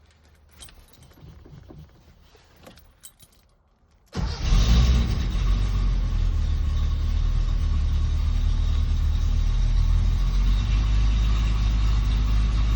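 Faint jingling and clicking of keys, then about four seconds in the 1972 Datsun 240Z's straight-six fires almost at once and runs steadily. It is a cold start without the choke, after a small pump of the throttle.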